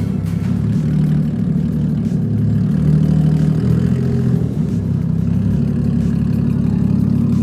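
A car engine running steadily at low revs, with slight rises and falls in pitch.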